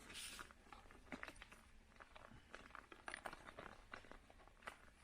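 Faint rustling and scattered light clicks of the plastic packets and bowl of a self-heating rice kit being handled.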